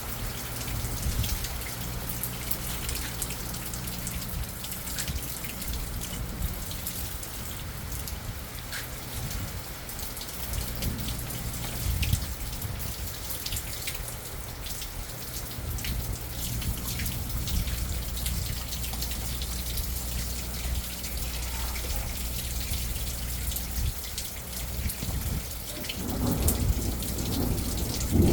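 Steady rain falling, with individual drops clicking and dripping close by. Near the end a low rumble of thunder begins and grows louder.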